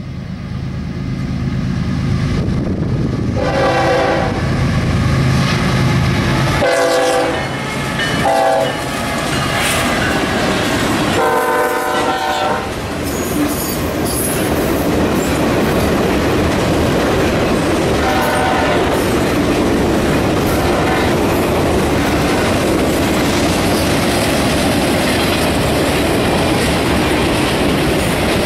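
Diesel locomotive horn blowing a long, long, short, long sequence, the grade-crossing signal, over the locomotive's engine. It is followed by the steady rumble and wheel clatter of train cars rolling past.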